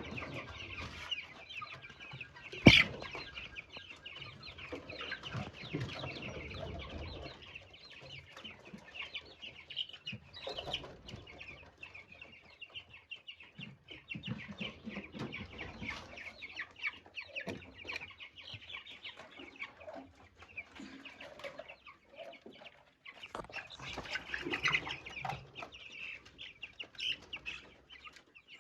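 A flock of young chicks peeping continuously, many short high cheeps overlapping. A single sharp knock about three seconds in.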